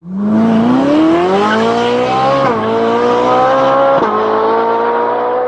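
Car engine accelerating hard through the gears: its pitch climbs steadily, drops sharply at a gear change about two and a half seconds in and again about four seconds in, then climbs again.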